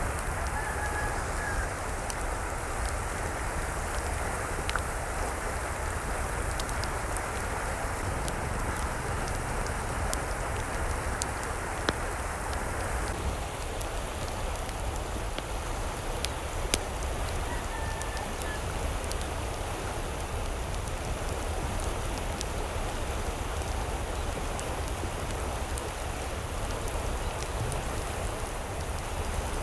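Steady hiss of water with scattered sharp drip-like ticks, and a faint short bird call twice, about a second in and again around the middle.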